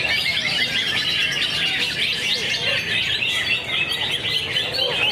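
Green leafbird (cucak hijau) singing a fast, unbroken stream of high chirps and twittering notes.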